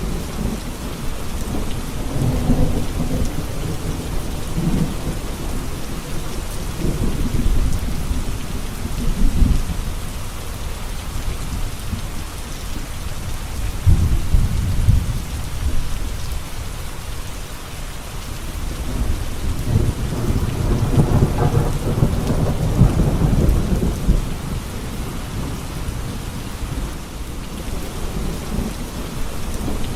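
Steady rain with low rolling thunder that swells and fades about three times.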